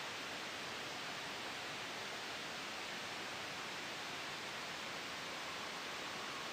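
Steady soft white noise for sleep and noise masking, blended with a gentle wind ambience. It is an even hiss that does not change in level.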